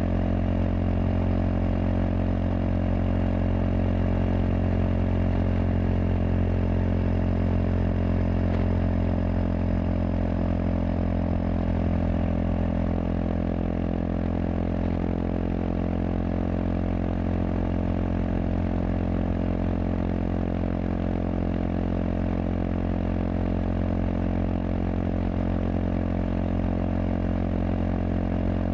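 Kawasaki KLX230SM's air-cooled single-cylinder four-stroke engine running through a K-Factory FRC slip-on silencer, held at a steady engine speed with no revving or gear changes.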